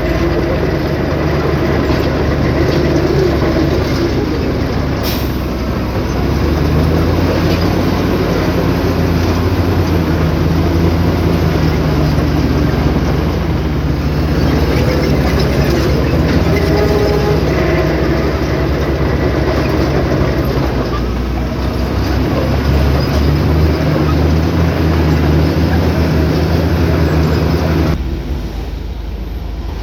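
Heavy diesel earthmoving machinery working: a large diesel engine running under load with metallic clatter, typical of a bulldozer pushing soil. The level drops suddenly near the end.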